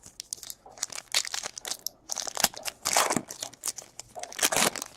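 Crinkling and tearing of a foil trading-card pack wrapper being ripped open and handled, in a run of irregular crackles.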